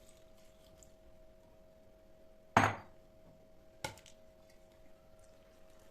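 Two sharp knocks of kitchen work, a loud one a little before halfway and a fainter one just over a second later, over a faint steady hum.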